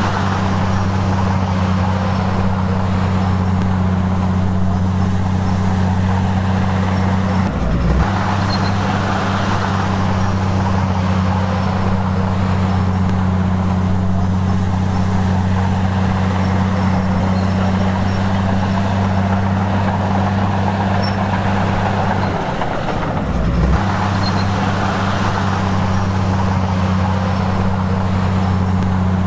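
Diesel engine of heavy earthmoving equipment running steadily under work, with a constant low hum. The sound breaks off briefly about 8 seconds in and again about 23 seconds in.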